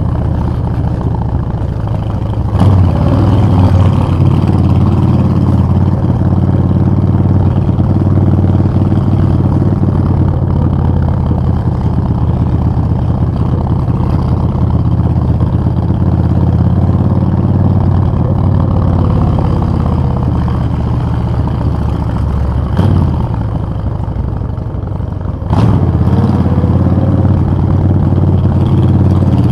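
Suzuki VS1400 Intruder's V-twin engine running steadily under way. The throttle is opened sharply about two and a half seconds in, backed off a few seconds before the end, then opened again.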